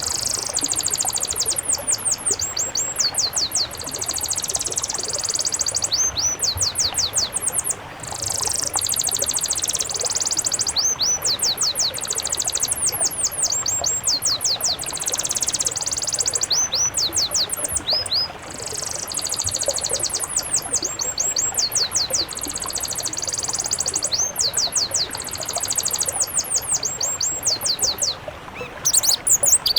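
Songbird singing a fast, high-pitched song: rapid runs of sharp repeated notes in phrases of about two seconds, separated by short pauses.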